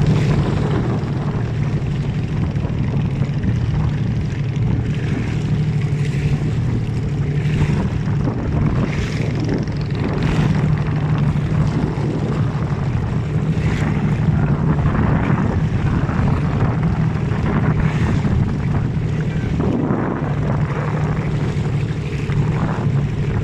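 A boat's engine running steadily at a constant low drone, with wind and water splashing over it.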